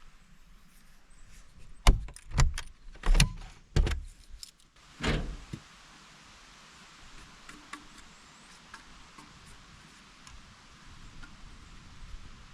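A quick run of sharp knocks and thumps over about two seconds, then one longer, heavier knock, followed by a steady soft hiss with occasional faint ticks.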